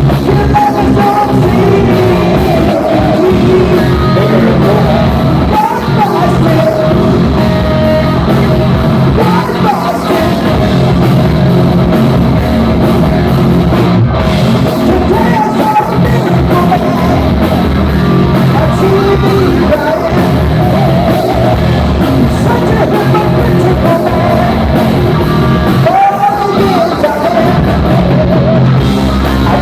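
Live heavy metal band playing loud, with a male singer singing over the band.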